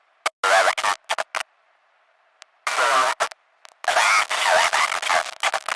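Loud television static hiss cutting in and out in abrupt bursts, with garbled snatches of a voice breaking through the noise. Short bursts come near the start, then a longer one about three seconds in and the longest from about four seconds to near the end, with a faint thin hiss in the gaps.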